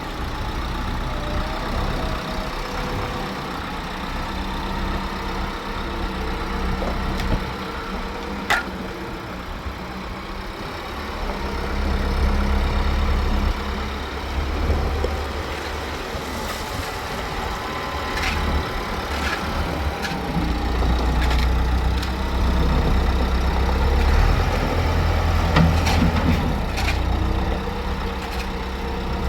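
An engine running with a low, steady rumble that swells and eases at times, with a few short sharp clicks.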